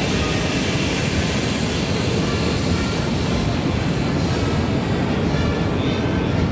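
Steady roar of aircraft engines, holding level without rising or falling.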